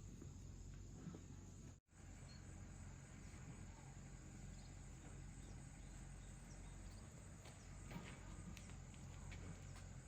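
Faint outdoor ambience with steady insect chirring and a few light clicks near the end; the sound drops out completely for an instant about two seconds in.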